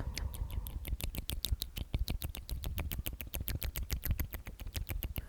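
Close-miked mouth clicks in a quick, even run of about eight a second, with no whispered words between them.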